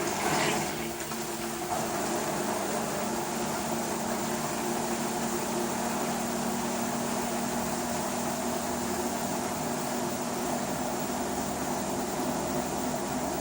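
LG WT-R852 direct-drive washing machine running, a steady hum with several held tones over a constant whoosh, and a brief swish about half a second in.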